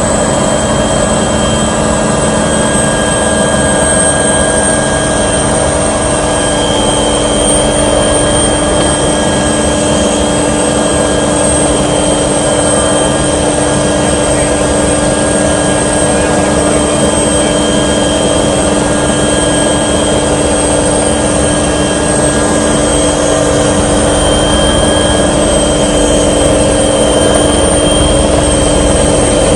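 Aircraft engine running steadily, a loud constant noise carrying several fixed hum tones that hold unchanged throughout.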